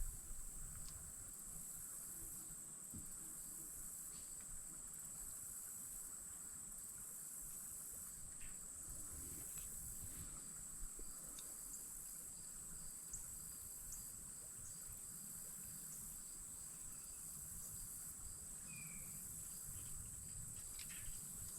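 Faint, steady high-pitched chorus of insects, with a few soft ticks and light low rumble underneath.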